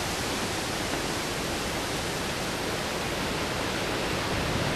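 Strong gale-force wind blowing steadily, an even rushing noise with no gaps.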